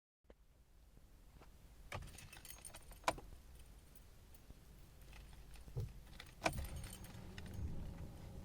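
Car keys jangling with a few sharp clicks, as at a key in the ignition of a BMW E46 316i. A low hum comes up about six and a half seconds in.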